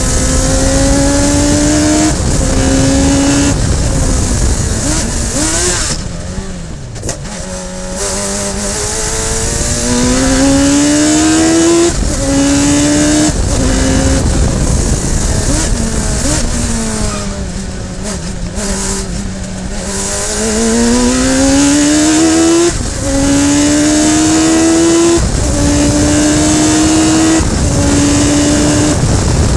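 Radical SR3 sports-racing car's engine at race pace. The revs climb in steps through quick upshifts, each gear change a sudden drop in pitch. Twice the revs fall away under braking and downshifts, about six and sixteen seconds in, before pulling up through the gears again.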